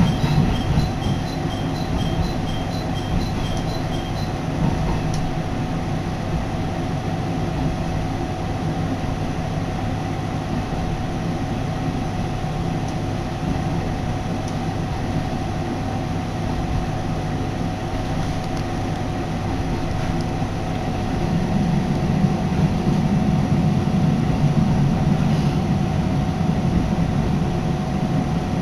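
Cabin sound of a Hisatsu Orange Railway diesel railcar running along the line: a steady rumble of engine and wheels with a steady whine over it. A level-crossing bell dings past in the first few seconds, and the low rumble grows louder about three-quarters of the way through as the car approaches the station.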